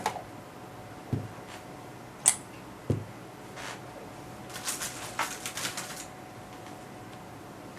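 Front-panel parts of an HP 3245A being handled on a bench: a few separate knocks and clicks, then a quick run of clicks and rattles about halfway through.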